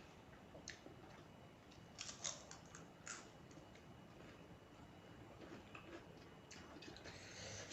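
Faint eating sounds close to the microphone: a few soft crunches and clicks of chewing about a second, two and three seconds in, otherwise near silence.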